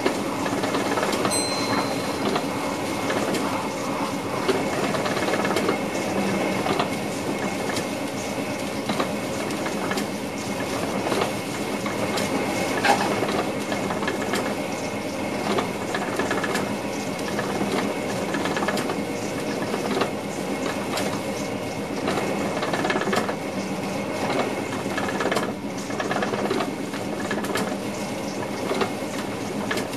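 An NS VIRM double-deck electric train running along the track, heard inside the driver's cab: a steady rumble of wheels on rail with faint steady tones and scattered clicks. A short high beep sounds about a second in.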